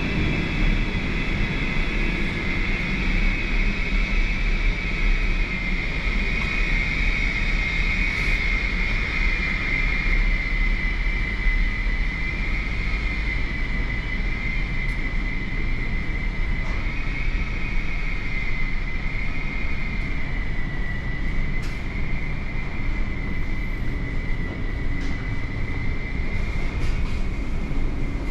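Steady mechanical drone: a low rumble under a constant high whine that wavers slightly in pitch, with a few faint clicks.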